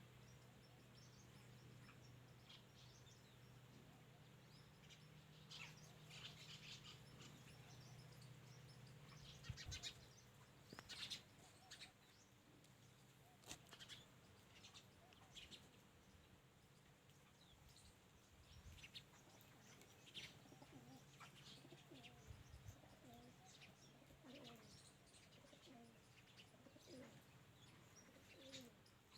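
Faint birdsong: small birds chirping in scattered short calls, with doves cooing in the second half. A faint low hum is under the first half.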